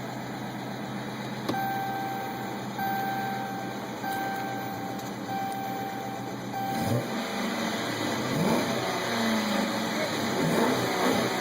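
2012 Dodge Charger R/T's 5.7-litre HEMI V8, exhaust with a shortened mid muffler, idling while an electronic chime beeps on and off about once a second. About seven seconds in, the chime stops and the engine is revved several times in quick blips.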